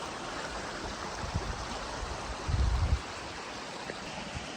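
A stream running steadily, with a few low thumps a little over a second in and a brief, loud low rumble from about two and a half to three seconds in.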